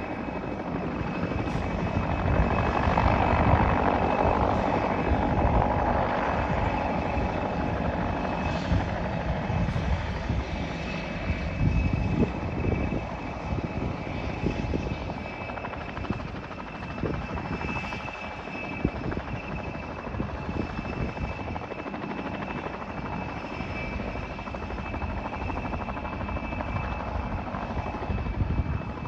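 Mil Mi-2MSB helicopter running, its twin AI-450M turboshaft engines giving a steady high whine over the rotor's choppy rumble. It grows louder a few seconds in, then eases off.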